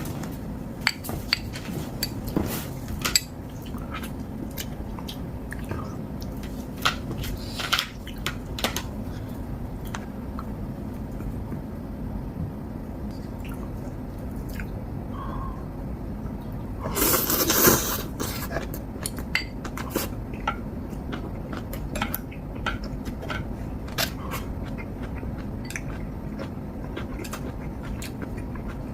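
Two people eating ramen: utensils clicking and clinking against bowls and pots at irregular intervals, with chewing. About two-thirds of the way through comes one louder, rushing sound lasting about a second.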